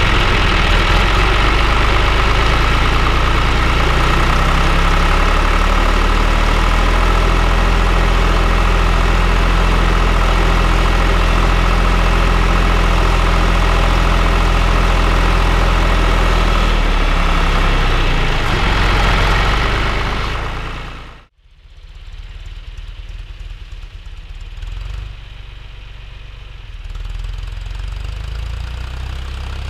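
Tractor diesel engine running steadily and loud while ploughing. About two-thirds of the way through, the sound cuts off abruptly and comes back as a quieter, more distant engine sound that grows a little louder near the end.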